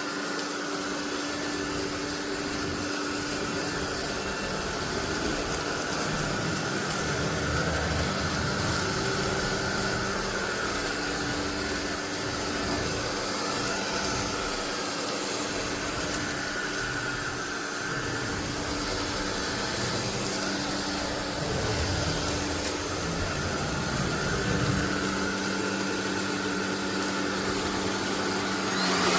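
SunSare X11 cordless stick vacuum running steadily: a constant motor whine over the rush of airflow.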